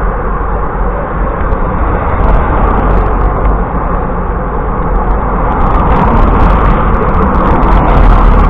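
Steady, loud rushing noise of wind buffeting a bicycle-mounted camera's microphone while riding, mixed with road noise.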